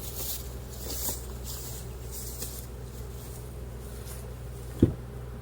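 Honey bees humming steadily around an open hive, with faint rustling as frames are handled and one short, sharp sound nearly five seconds in.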